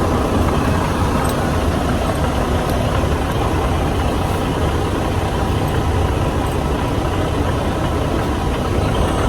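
Semi truck's diesel engine running steadily, a low even rumble with a faint steady hum over it.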